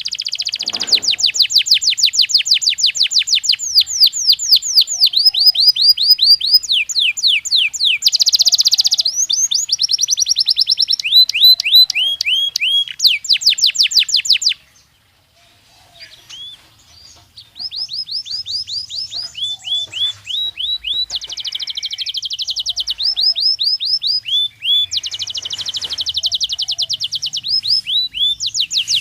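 Belgian canary (domestic canary) singing in fast rolling trills of quick repeated downward-sweeping notes, the speed of the repeats changing from phrase to phrase. The song breaks off for about three seconds midway, then resumes.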